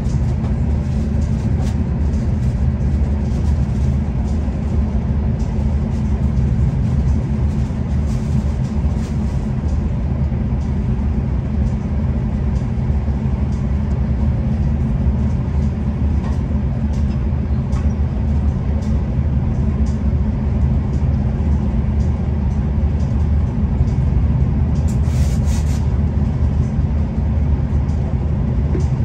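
V/Line passenger train running steadily, heard from inside the carriage as a continuous low rumble with faint clicks from the wheels and car body. A brief hiss comes near the end.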